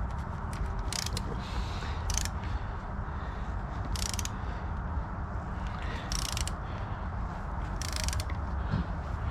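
Hand ratchet wrench clicking in short bursts, about one every two seconds, as a rusted bolt is worked out, over a steady low hum.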